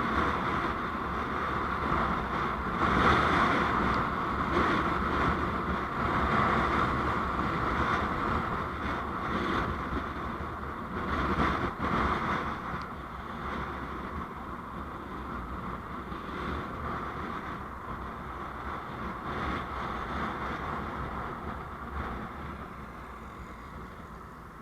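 A moving road vehicle: a steady rush of road and wind noise with small gusts. It grows quieter over the second half, falling further near the end.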